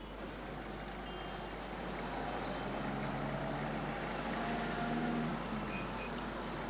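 Busy city street traffic: a steady din of vehicles, with a few short beeps or horn tones over it about four to six seconds in.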